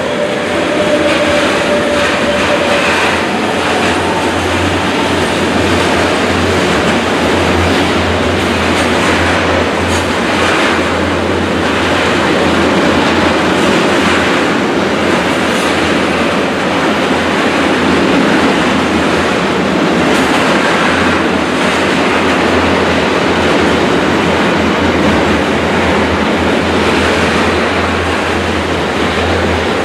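Freight train of tank wagons rolling past close by: a loud, steady rumble of steel wheels on rail with scattered clacks from the wheelsets. A steady tone in the first few seconds fades as the locomotive moves away.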